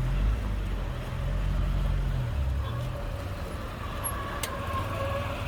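Heavy truck engine running with a deep rumble that drops away about two and a half seconds in, leaving a steadier, higher whine. There is one sharp click near the end.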